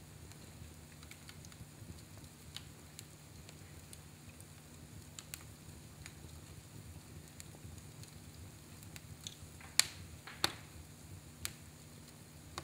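Fire in a fireplace crackling softly over a low steady rumble, with scattered small clicks. There are two sharp pops close together near the end and a smaller one a second later.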